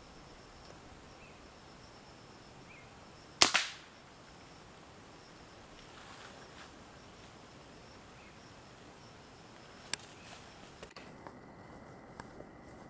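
An air rifle fires once, a sharp crack about three and a half seconds in that rings on briefly; a shorter, fainter click comes near ten seconds. A faint, steady, high insect buzz runs underneath.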